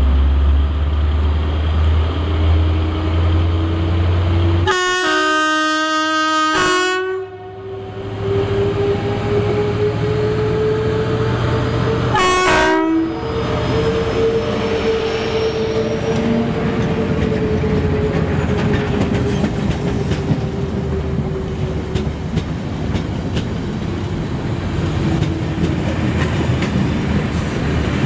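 GB Railfreight Class 73/9 locomotive bringing a test train through: a loud low engine drone, then about five seconds in a long horn call of several stepped tones, a driver's 'tone' for the spotters, and a second short horn blast around twelve seconds in. The train then rolls past with steady wheel clatter.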